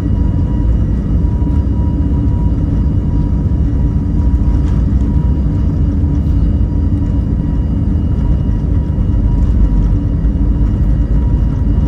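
Cabin noise inside an Airbus A320neo: the CFM LEAP-1A engines and airflow make a loud, steady rumble, with faint steady whining tones over it.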